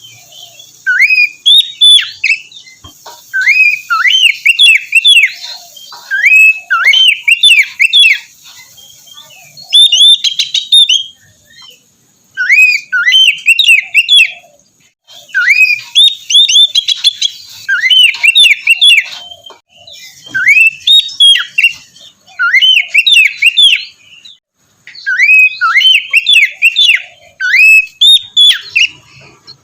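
Oriental magpie-robin (kacer) singing: loud phrases of quick whistled notes sliding up and down, broken by short pauses.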